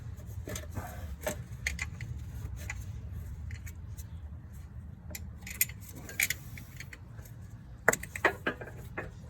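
Hands working a plastic electrical connector by hand: scattered light clicks and rattles, with a cluster of sharper clicks near the end, over a low steady hum.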